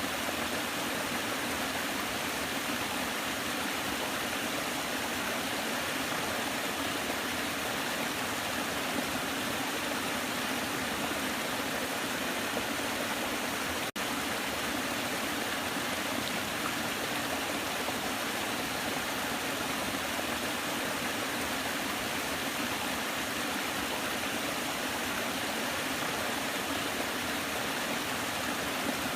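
Waterfall: a steady, even rush of falling water, with a momentary dip in level about halfway through.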